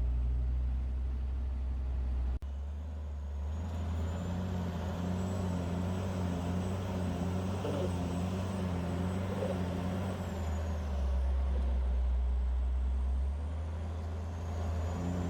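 Heavy diesel engine running steadily with a deep drone. The sound changes abruptly about two and a half seconds in, then carries on with more rumble and a faint high whine.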